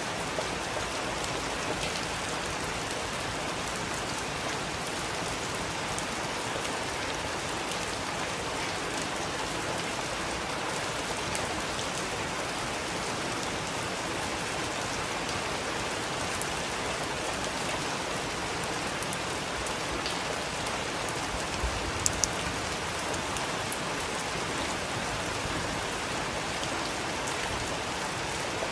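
Heavy rain falling steadily, an even hiss of downpour, with a few sharp drip ticks scattered through the second half.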